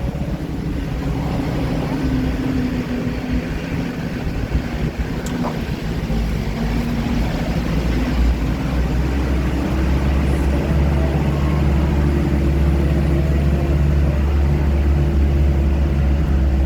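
Engine and road rumble of a moving vehicle, heard from on board: a steady deep drone whose engine note climbs slightly and grows louder about halfway through.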